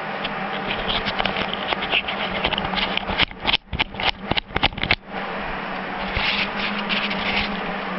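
MIG welder arc crackling and buzzing on thin sheet steel. About three seconds in it breaks into a quick run of short bursts, then goes back to a steady crackle.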